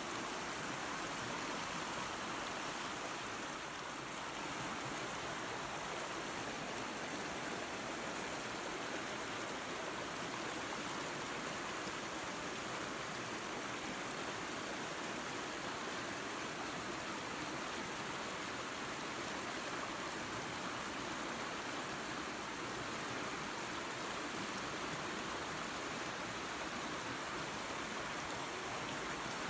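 Creek water and a small waterfall running, a steady even rush with no change.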